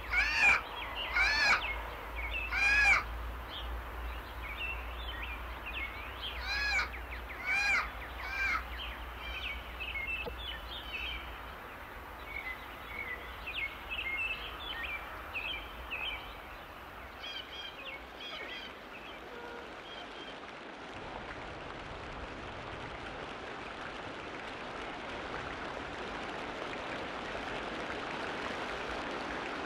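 Bird calls: loud, arching calls repeated about once a second in the first three seconds and again around seven to eight seconds in, then softer chirping, giving way after about twenty seconds to a steady hiss that slowly grows.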